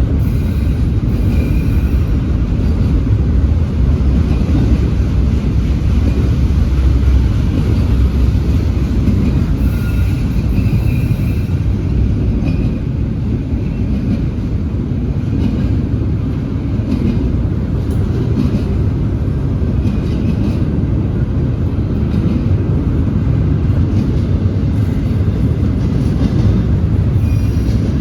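Freight train rolling past, a steady low rumble of wheels on rail, with faint brief high squeals a couple of times.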